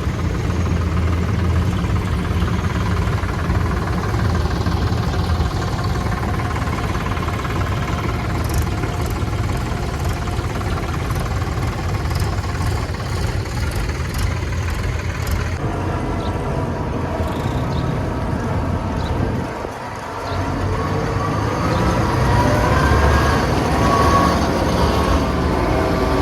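Heavy diesel farm machinery, combine harvester or tractor engines, running steadily. It dips briefly about twenty seconds in, and near the end a pitched sound glides up and down over it.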